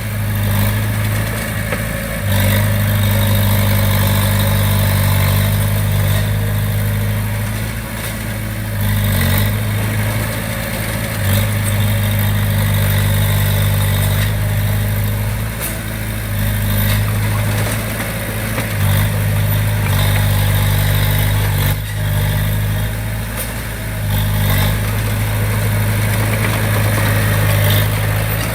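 Komatsu D20P bulldozer's diesel engine running steadily, its note dipping and picking up again several times as the dozer works, with a few short knocks.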